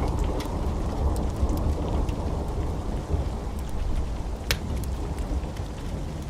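Wood fire burning in a fireplace: a steady low rumble of flames with scattered sharp crackles and pops, one louder pop about four and a half seconds in.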